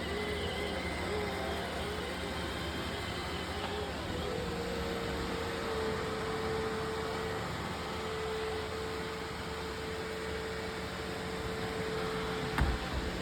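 Roomba robot vacuum running: a steady motor hum and whine over brushing noise, with one short knock near the end.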